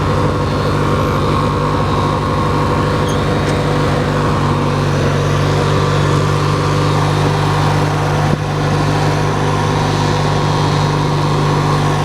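Hechinger riding lawn tractor's engine running steadily at a constant speed while driving, with a brief dip about eight seconds in.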